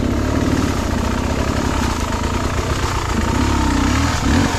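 Two-stroke engine of a Beta 300RR trail bike running steadily at low revs.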